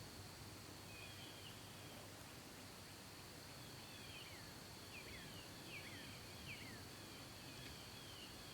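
Faint songbird calls: short chirps and quick downward-slurred notes, coming thick and fast from about four seconds in, over quiet woodland background with a thin steady high tone.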